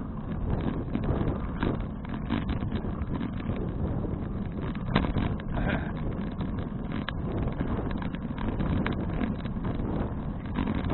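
Wind buffeting an action camera's microphone on a moving folding bicycle, with a steady low rumble and scattered small clicks and rattles.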